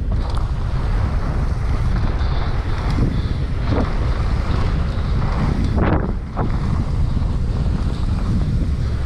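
Wind buffeting the microphone of a camera on a mountain bike riding down a muddy trail, a steady loud rush with a few brief surges of tyre and trail noise.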